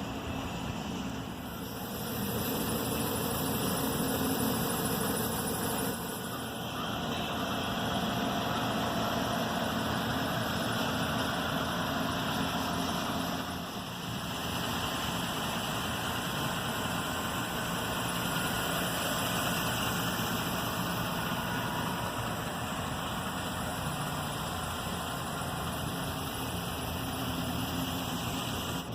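2013 GMC Sierra 1500 pickup's V8 engine idling steadily.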